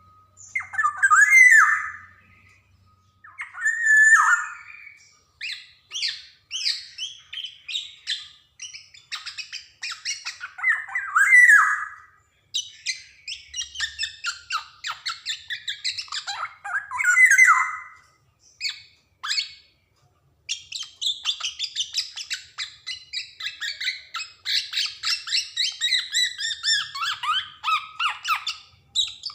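Black-naped oriole (Javanese golden oriole) singing. Four loud, rich, slurred whistles are spaced through the song, with runs of quick, scratchy, high chattering notes between them, and the chatter runs on unbroken through the last third.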